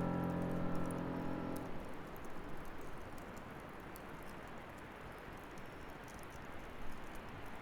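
The last held piano chord of one song dies away over the first second or two. Then a bonfire crackles softly, with scattered small pops.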